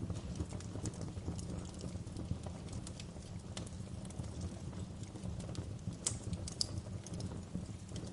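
Wood fire in a fireplace crackling: irregular sharp pops and snaps over a steady low rumble of the flames, with a couple of louder pops about six seconds in.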